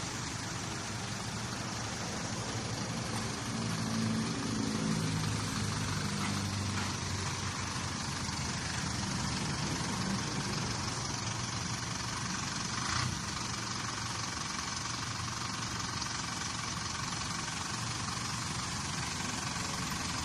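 Truck engine idling steadily, a little louder for a few seconds about four seconds in, with one short knock about thirteen seconds in.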